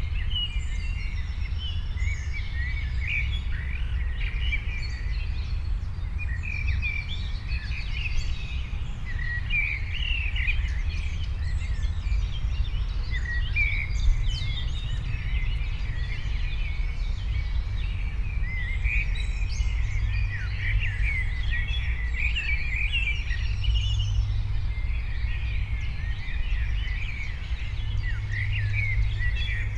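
Many songbirds chirping and calling at once, a dense, continuous chorus of short high chirps, over a steady low rumble.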